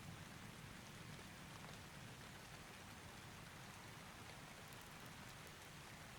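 Faint, steady rain falling, an even hiss with no thunder.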